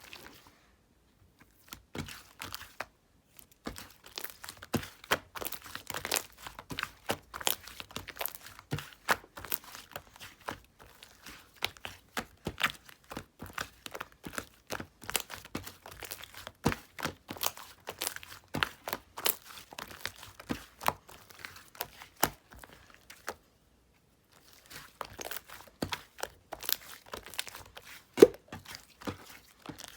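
Slime being squeezed and poked by hand, giving a dense, irregular run of sharp crackles and pops, with a brief pause about three-quarters of the way through.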